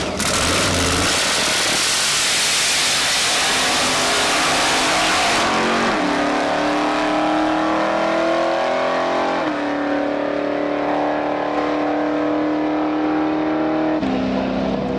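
Drag race car accelerating hard down the strip: a loud roar at first, then the engine note climbs and drops back twice, about six and nine and a half seconds in, as it shifts gears.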